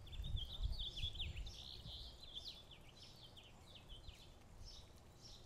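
Small birds chirping in quick runs of short high notes, busiest in the first two seconds and sparser after, with a faint low rumble under the start.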